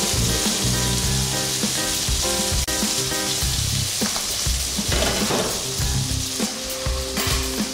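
Veal liver slices and mango strips sizzling as they fry in two pans, with a rougher rush of sizzle about four seconds in as the mango is tossed in its pan. Background music plays underneath.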